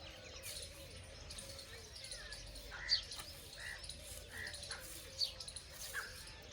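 Birds chirping: a scattering of short calls, including a few quick, high, falling notes, over a faint steady hum.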